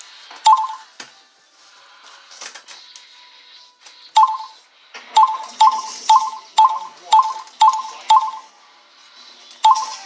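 Short beep-like tones, each starting with a click: one early, then a run of seven about twice a second, and a last one near the end.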